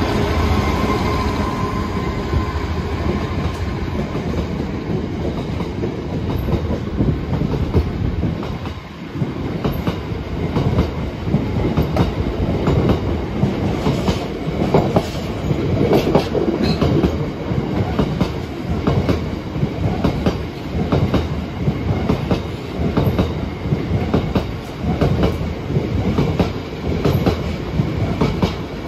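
A train passing close by, its wheels clacking over the rail joints in a long repeated run; a locomotive's engine tone fades away in the first couple of seconds.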